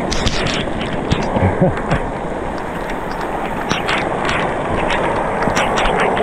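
Heavy rain and hail pelting down, with many sharp scattered taps of hailstones over a steady downpour, and wind buffeting the microphone.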